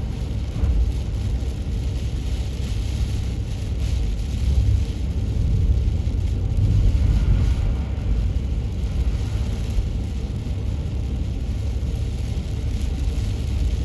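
Steady low rumble of car road noise heard from inside the cabin, as the car drives on a snow-covered highway.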